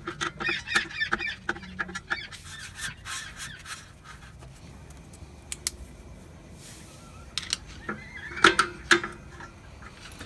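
Poultry calling in the background, strongest in the first two seconds and again near the end, with scattered sharp metallic clicks and taps from tools working the rear handbrake shoe adjuster through the brake rotor.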